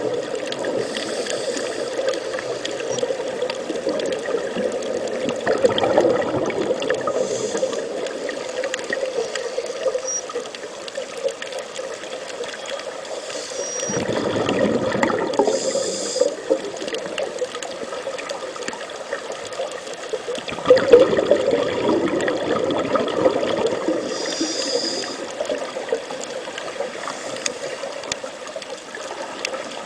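Underwater bubbling and water noise, with louder surges of rushing bubbles about halfway through and again some seconds later.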